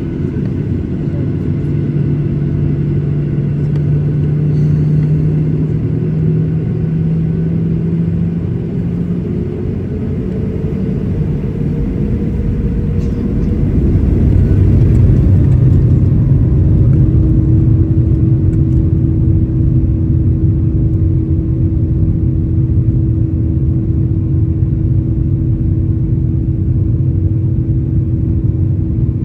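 Boeing 737 jet engines heard from inside the cabin: a steady low hum, then a whine that rises in pitch through the middle and a swell in loudness about halfway through, settling into a steady higher tone, typical of the engines spooling up to takeoff thrust.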